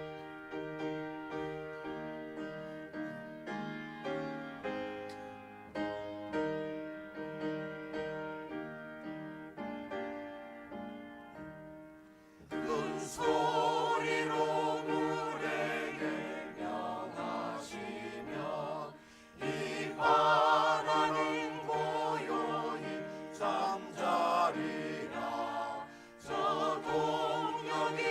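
Choir singing a hymn with piano accompaniment. The first half is the instrument alone playing an interlude of separate decaying notes; about halfway through, the voices come back in, louder and with vibrato.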